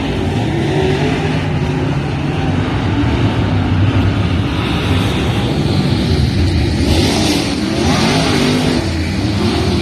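Race car engines running, their pitch rising and falling as they rev, loud throughout.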